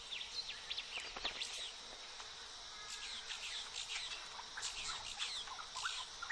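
Many short, high chirps from birds, scattered irregularly, over a faint steady insect hum.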